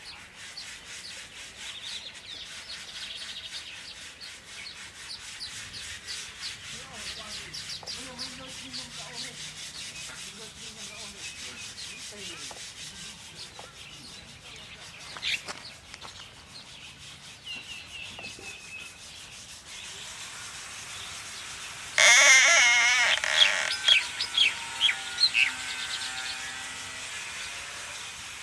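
Soft scraping and rustling, like nest material being worked, then a sudden loud burst of warbling bird calls about three-quarters of the way in, followed by several short, sharp chirps.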